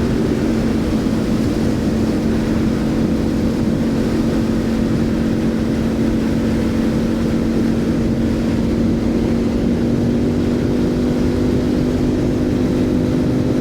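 Motorcycle riding at a steady cruising speed: a constant engine drone holding one pitch, under heavy wind rush on the microphone.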